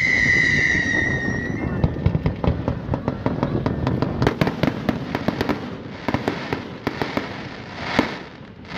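Fireworks going off. A high, slightly falling whistle fades out about a second and a half in, then a dense run of sharp pops and crackles follows, several a second. A single louder bang comes near the end.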